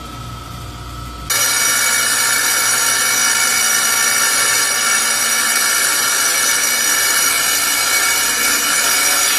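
Electric wet tile saw: the motor runs with a low hum and a steady whine, then about a second in the blade bites into tile. A loud, steady grinding cut follows, with a high whine, and falls off near the end.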